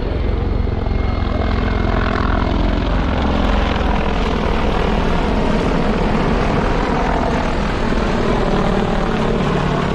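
Military helicopter flying the display, its rotor and turbine engine running steadily and loudly.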